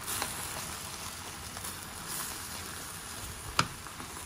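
Chicken, spring onions and sliced mushrooms sizzling in a baking dish while a spatula stirs them, with a scrape of stirring at the start and one sharp knock about three and a half seconds in.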